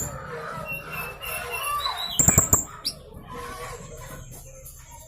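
Young blue-crowned hanging parrot (serindit) calling: shrill chirps and short whistles, a quick burst of sharp clicking notes about two and a half seconds in, and a long high steady whistle near the end.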